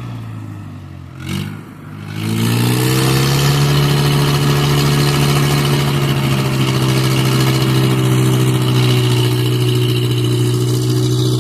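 Mahindra 415 DI tractor's diesel engine easing off and dipping, then about two seconds in revving hard and held steadily at high revs. The engine is under load while the tractor is stuck in a river.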